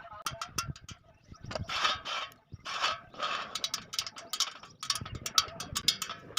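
Spokes of a 36-spoke motorcycle rear wheel being tightened with a spoke wrench: irregular metallic clicks and short ratcheting, rasping bursts as the nipples turn.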